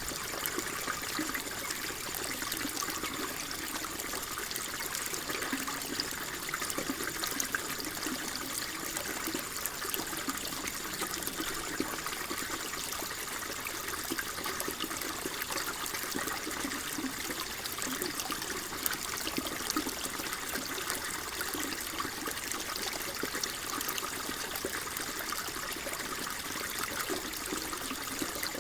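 Water flowing and trickling steadily, with many small splashes and bubbling ticks.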